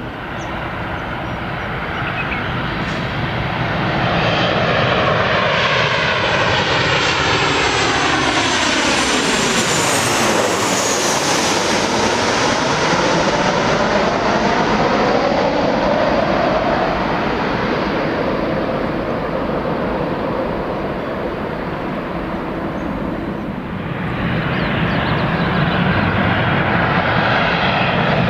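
Jet airliner on final approach passing low overhead, its engine noise sweeping down in pitch with a phasing, whooshing sound as it goes by about ten seconds in. The noise eases, then rises again near the end.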